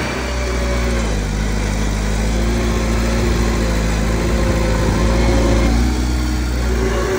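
Diesel engine of heavy earthmoving equipment running steadily, its pitch shifting slightly a couple of times as the load changes.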